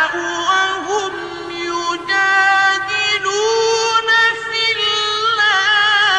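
Male Quran reciter chanting in the melodic mujawwad style, drawing out long held notes high in his voice with ornamented turns, stepping up in pitch about three seconds in.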